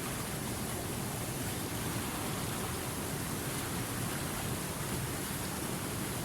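River water rushing steadily, an unbroken, even hiss with no separate splashes or changes.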